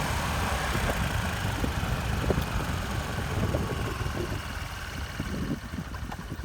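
Motorbike engine running under a steady hiss, quietening in the last second or so.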